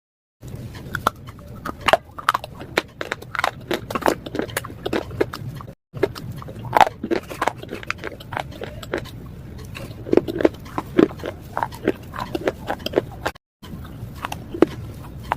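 Pieces of slate being bitten and crunched between teeth: a dense, irregular run of sharp, brittle crunches, cutting out to silence twice for a split second.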